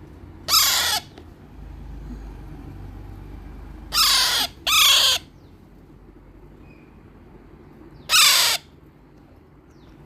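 Baby Alexandrine parakeet, about 25 days old, squawking four times in harsh, half-second calls: once about a second in, twice close together around four seconds in, and once near the end.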